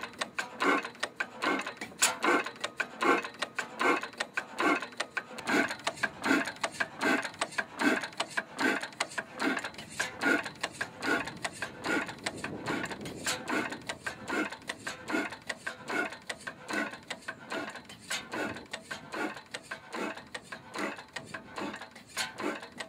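Circa-1907 Blackstone four-cycle hot-bulb kerosene engine running, a steady rhythmic clatter of about two beats a second.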